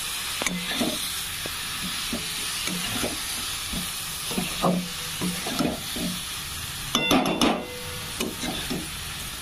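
Cauliflower florets in a thick masala sizzling in oil in a metal kadai while a flat metal spatula stirs and scrapes them. The frying hiss is steady, with irregular scraping strokes, and a few sharp clicks of the spatula against the pan come about seven seconds in.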